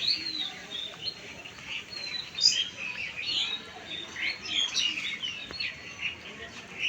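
Several birds chirping and calling at once: a dense chorus of short, high chirps and whistles, some sliding up or down in pitch.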